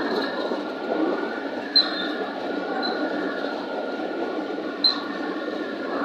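A train rolling past, its wagons making a steady rumble and rattle, with three short, high wheel squeals about two, three and five seconds in.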